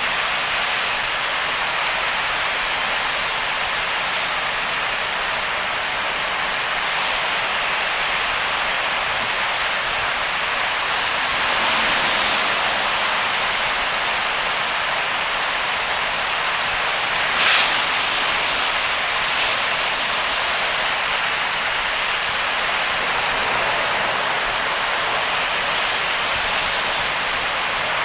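Steady hiss of heavy rain and tyre spray from a car driving on a flooded wet road, with one sharp click about two-thirds of the way through.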